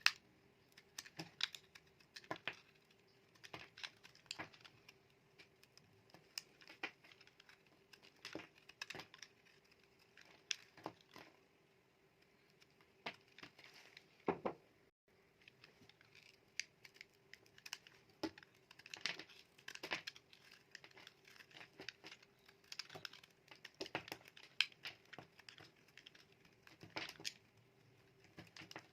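A knife cutting dry soap bars: short crisp crunching and crackling strokes in irregular clusters.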